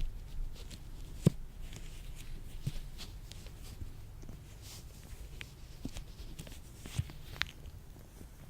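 Latex-gloved hands rubbing and handling, with soft rustles and scattered sharp snaps and clicks; the loudest snap comes about a second in, and two more come near the end.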